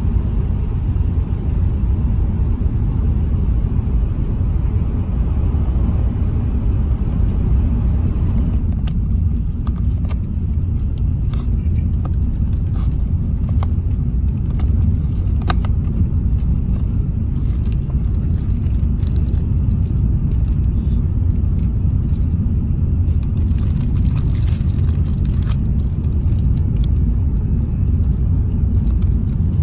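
Steady low rumble of a Shinkansen bullet train running, heard inside the passenger cabin. Light clicks and rustling of a cardboard box and a plastic wrapper being handled come over it, with a brief crinkle a little past the middle.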